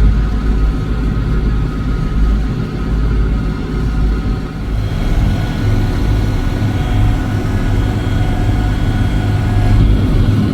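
Engine and drive of a 1980-era farm harvesting machine running steadily under load with a deep rumble; a faint higher whine joins about halfway through.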